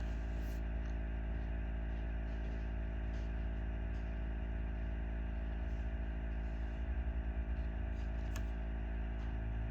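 Steady low hum with no change in pitch or level, and a faint click a little past eight seconds in.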